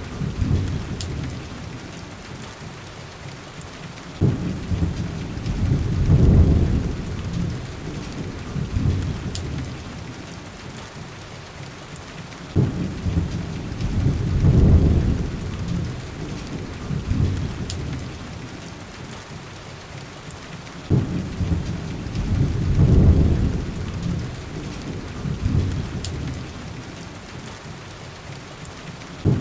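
Heavy rain falling steadily, with three deep rolling rumbles about eight seconds apart, each starting suddenly and swelling for a few seconds before dying away.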